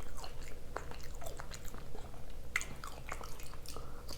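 A person chewing food close to the microphone: a run of small wet mouth smacks and clicks, with a sharper one about halfway through.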